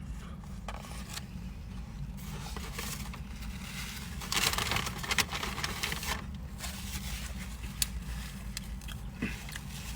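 Close-miked eating of a chili cheese dog: soft biting and chewing with small wet clicks. A louder burst of crackly rustling comes about four seconds in and lasts about a second.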